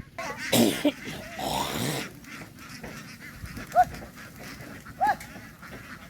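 A flock of farm ducks calling, with two loud, rough bursts of noise in the first two seconds and single short calls about four and five seconds in.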